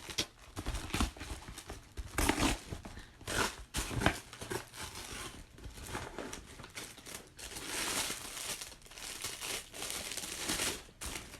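Packaging being torn open and crinkled by hand: irregular rustling and tearing with sharp crackles, denser crinkling in the second half.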